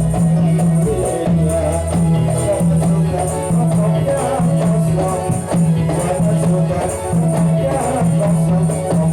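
Ndolalak dance music: a steady rhythm with jingling frame drums over a low bass note that pulses in long held strokes and a melody line.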